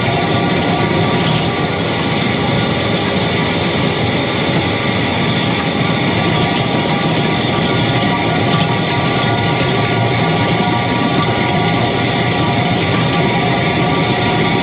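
John Deere 335P skid steer's diesel engine running steadily while it works a power rake through gravel.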